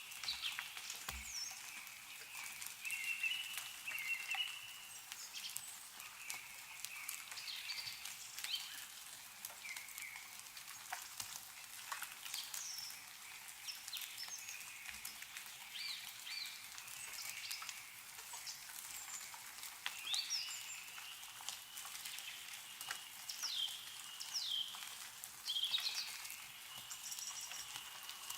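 Meltwater dripping and pattering from snow-laden trees in a steady scatter of small ticks, with small birds chirping throughout in short notes and quick falling calls.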